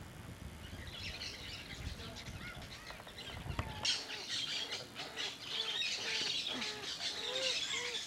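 Several birds calling and chirping, busiest in the second half. Under them a low rumble runs for the first few seconds and stops abruptly about four seconds in.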